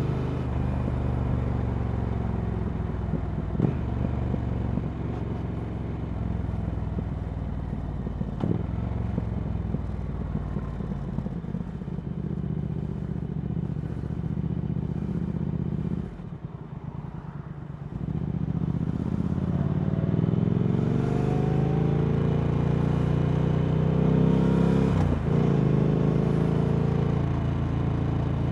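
Triumph Speed Twin 1200's parallel-twin engine running through Vance & Hines slip-on exhausts while riding. About sixteen seconds in the throttle closes and the engine drops briefly; it then accelerates with rising pitch, with a short break near the end for a gear change.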